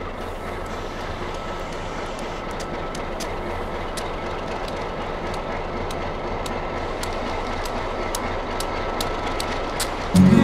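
Narrow-gauge train led by an ex-White Pass & Yukon Alco diesel locomotive running steadily, with a low engine hum and a regular run of wheel clicks over the rail joints.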